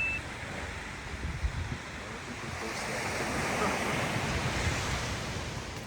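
Ocean surf washing steadily, with wind noise on the microphone, swelling gently through the middle.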